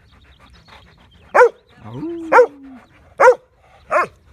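Siberian husky barking: four short, loud barks about a second apart, with a lower drawn-out note between the first two.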